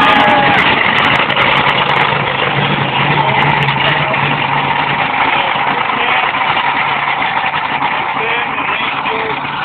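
Big monster truck's engine running loud and steady: a low drone under a dense wash of noise, easing a little near the end.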